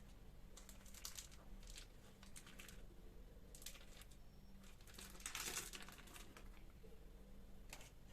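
Faint rustling and crinkling, several short scrapes scattered through, the longest and loudest about five seconds in, against near-silent room tone.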